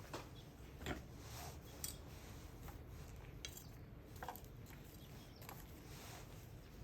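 Wood fire crackling: irregular sharp pops and snaps over a low steady rush.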